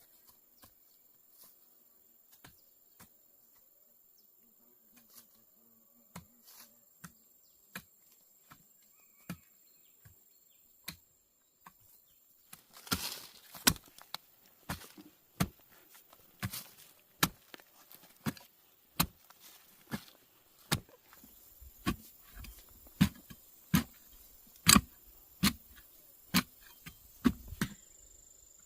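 Hand tool striking wood in a steady rhythm, roughly one blow a second. The blows are faint at first and grow louder about halfway through. A faint, steady, high insect drone runs underneath.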